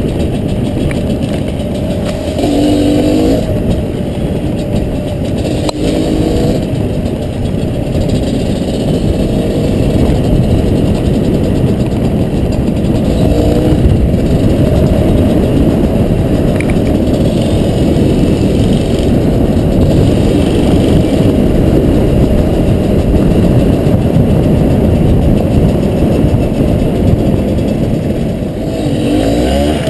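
Honda CRM250RM two-stroke dirt bike engine running under way with a continuous rough rumble. It revs up briefly a few times: about 3 s in, at about 6 s, at about 13 s and again near the end.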